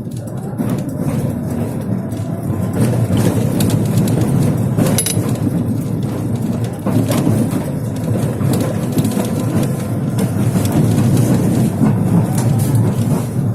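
Tram running along the track, heard from inside the car: a steady low rumble from the wheels on the rails, with scattered knocks of the wheels over the uneven, crooked rails, one of them sharper about five seconds in.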